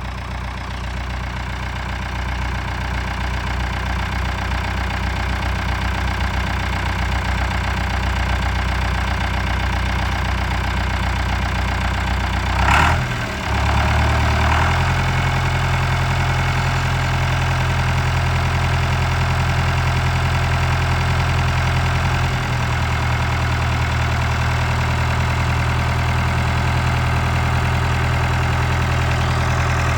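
1976 David Brown two-wheel-drive tractor's diesel engine running steadily at idle. About halfway through there is a brief sharp sound, and the engine note changes right after it; it shifts again about three-quarters of the way through.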